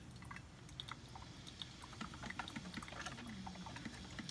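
Coffee maker brewing: scattered small clicks and pops with a faint low tone that wavers and slides in pitch, the sound the owner likens to sex noises.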